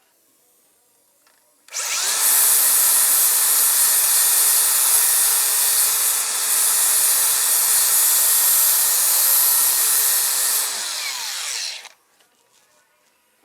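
Hand-held power grinder run against the steel of a rusty chassis for about ten seconds. It starts suddenly about two seconds in, runs loud and steady, then winds down in pitch before stopping.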